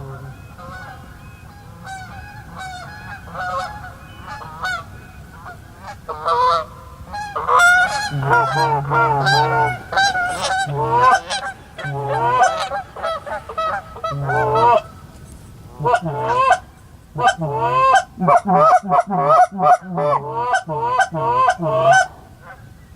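Geese honking over and over, a few calls at first, then a dense run of honks from about eight seconds in, and a fast string of honks near the end.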